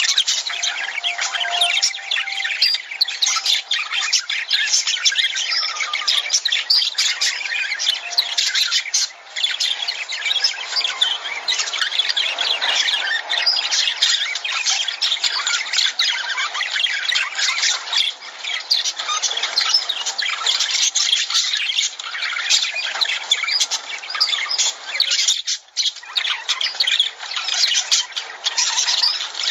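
A flock of lovebirds chattering, with a dense, unbroken stream of high-pitched squawks and chirps that dips only briefly, about nine seconds in and again a few seconds before the end.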